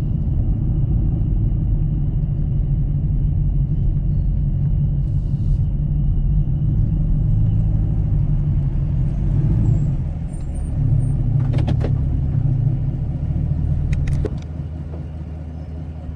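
2021 Chevrolet Camaro SS's 6.2-litre V8 through an AWE Track Edition axle-back exhaust, heard from inside the cabin while driving: a steady low drone that dips briefly about ten seconds in and eases off near the end.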